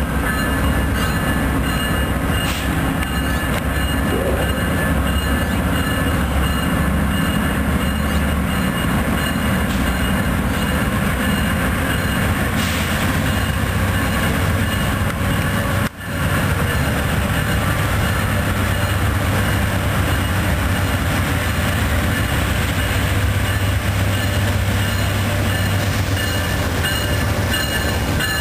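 Amtrak diesel locomotive and its passenger cars rolling in along a station platform: engine running over the noise of wheels on the rails, with thin steady high tones above. The sound breaks off briefly about halfway through.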